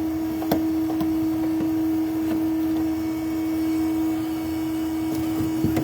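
A steady, even hum runs throughout, with a few short knocks and scrapes of a metal pry bar levering into a garage ceiling cavity, about half a second in and again near the end.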